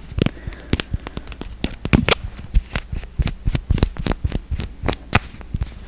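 Quick, irregular tapping on plastic makeup packaging, several sharp taps a second in uneven clusters.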